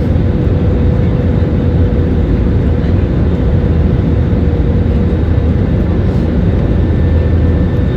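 Steady roar of an airliner in flight heard from the passenger cabin: a deep, even engine and airflow rumble with a faint steady tone above it.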